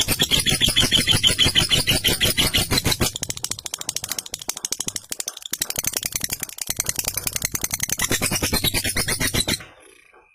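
Lovebird 'ngekek' chatter: a long, rapid, unbroken stream of sharp, shrill chirps, which cuts off suddenly near the end.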